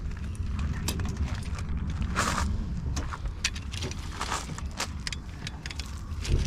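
Hand tools clinking and knocking in an irregular run of light clicks, over a steady low rumble.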